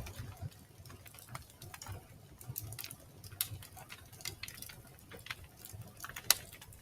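Wood fire crackling in a fireplace: irregular sharp pops over a soft low rumble, with one louder pop near the end.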